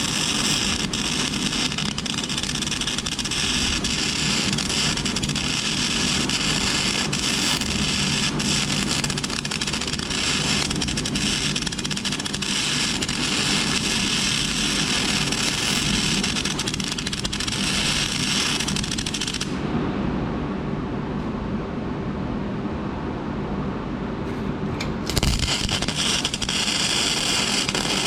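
Flux-cored wire welding arc from a Lincoln Weld-Pak 90i wire-feed welder, crackling and sputtering steadily. Near the end the arc stops for about five seconds, leaving a lower hum, then strikes again with a sharp pop.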